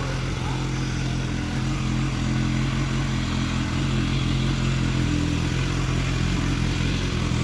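BMW S1000R inline-four engine idling steadily through an Akrapovic aftermarket exhaust, with a slight rise in loudness about a second and a half in.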